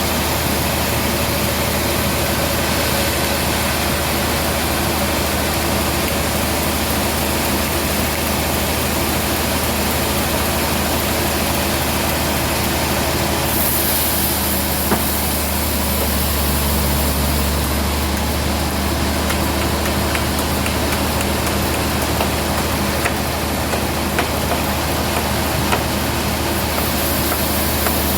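Band sawmill running steadily, a constant low machine drone with hiss, with a few faint clicks.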